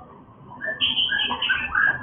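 White-rumped shamas calling: a quick run of short chirps and whistled notes that starts about half a second in and keeps going.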